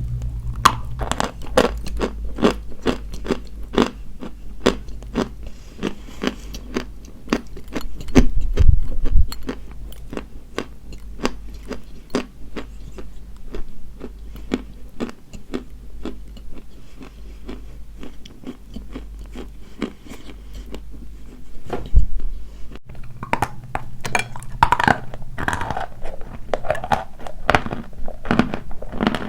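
Close-miked biting and chewing of dry white chalk: a dense run of crisp crunches, with a louder low thud about eight seconds in and another a little past the middle.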